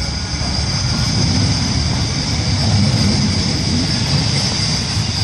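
Manchester Metrolink M5000 double tram pulling away and accelerating: a steady low rumble of wheels and traction motors, with a faint motor whine shifting in pitch.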